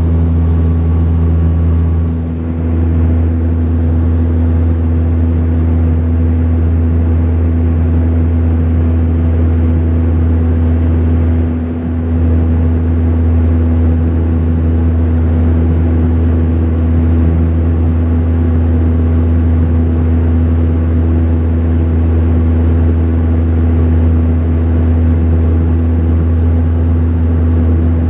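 Steady cabin drone of a Saab 340B's twin General Electric CT7 turboprops in flight, a loud low propeller hum with a constant pitch. It dips slightly in loudness twice, about two seconds in and near the middle.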